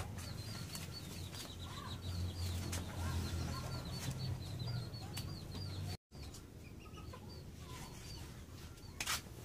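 Birds chirping in a quick run of short, high calls, a few per second, over a faint low hum. The calls thin out after a cut about six seconds in, and a few sharp knocks come near the end.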